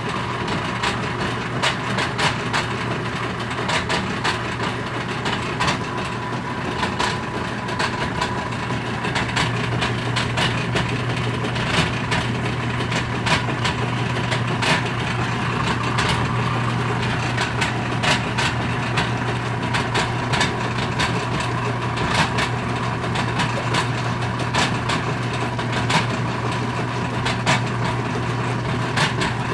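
Whirlpool direct-drive washing machine running with a steady motor hum and irregular clacks and pops. The machine spins but will not drain, and the noise began after its drain system was taken apart and refitted.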